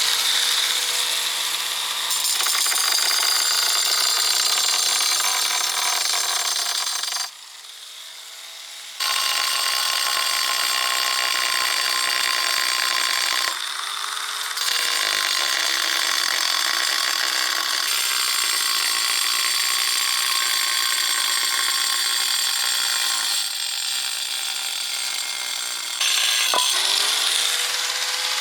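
Handheld electric power tool running under load with a steady high whine, stopping for about two seconds a quarter of the way in and then running again with two brief dips as the motor slows and picks back up.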